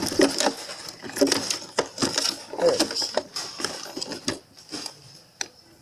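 Irregular clatter and knocks of food packages and containers being handled and set onto refrigerator shelves and door bins. The clatter is busiest for the first three seconds, then thins to a few sharp clicks.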